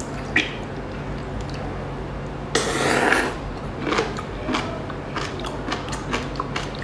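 Eating and food-handling noises: a dense crunching or tearing burst about two and a half seconds in, with scattered clicks and scrapes of food, utensils and dishes around it.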